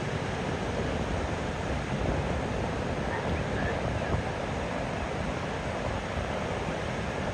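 Steady wind buffeting the microphone with a low rumble, over the wash of sea surf.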